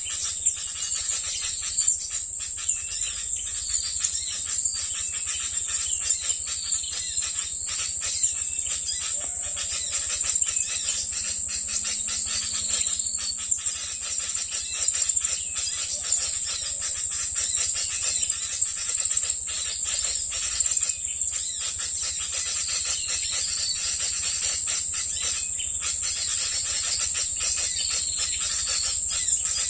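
Small birds chirping and twittering over a steady high-pitched buzz with rapid crackling.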